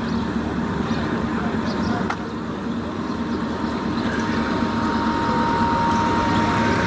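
Engine idling steadily, joined about four seconds in by a thin steady whine, with people talking in the background.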